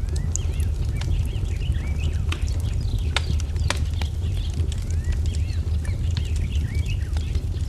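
Wood fire crackling with scattered sharp pops, two louder ones a little past three seconds in, over a steady low rumble, while small birds chirp many short rising and falling calls.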